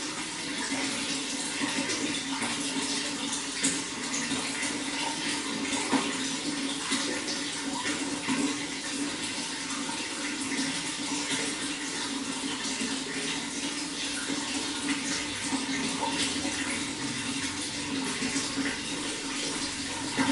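Running water, a steady rush with small splashes and drips.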